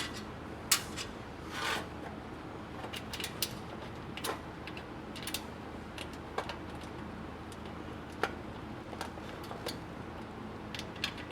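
Trunk latch and handle parts being fitted together by hand: scattered light metal clicks and clinks.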